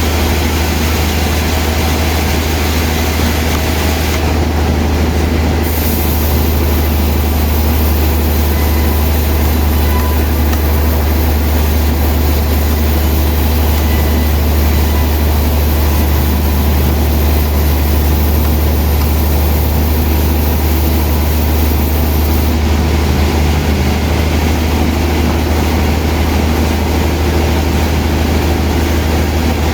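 Sawmill machinery running steadily and loudly, with a strong low hum under a dense mechanical noise, while a large log is being sawn.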